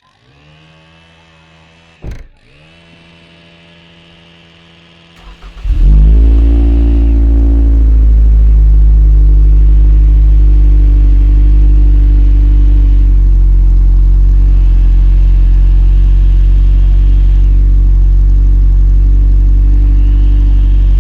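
A faint hum with a single knock about two seconds in, then a Toyota RAV4's 2.5-litre four-cylinder engine catches on a cold start just before six seconds in. It settles into a loud, steady, low idle drone through an aFe Takeda exhaust.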